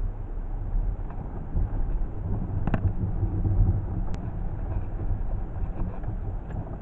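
Steady low rumble of a vehicle, heard from inside the cabin, with one sharp knock a little under halfway through and a faint tick soon after.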